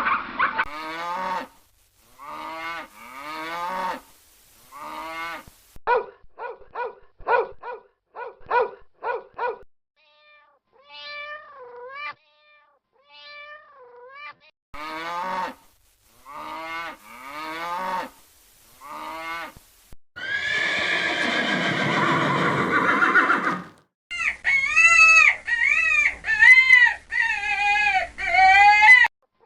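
A series of different farm animal calls, one clip after another: groups of drooping pitched calls, a quick run of short calls, a few thin high calls, one long noisy call about two-thirds of the way through, then a run of wavering pitched calls near the end.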